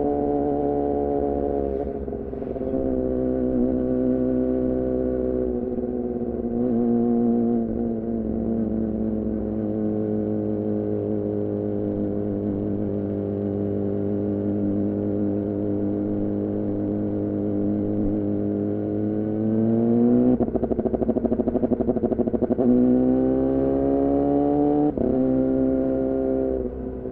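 2014 Yamaha R6's inline-four running through an R9 titanium muffler and Leovince header under riding: a steady engine note for most of the time, then the revs rise and it gets rougher and louder about twenty seconds in, with a brief break in the note near the end like a gear change before the throttle eases off.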